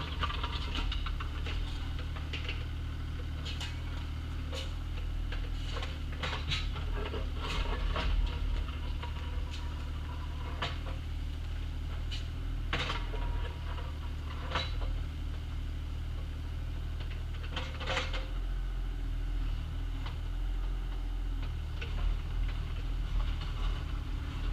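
Bobcat excavator's engine running steadily, with scattered metallic clanks and knocks from the working machine.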